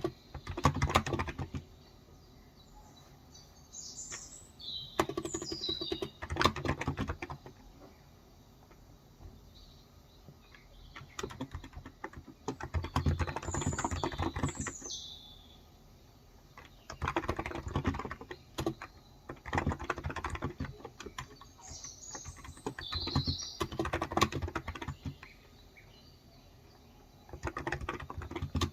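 Typing on a Cox Endeavor electro-capacitive (non-contact) tenkeyless keyboard with 35 g switches, in bursts of rapid key clicks separated by pauses of a few seconds. Birds chirp in the background three times.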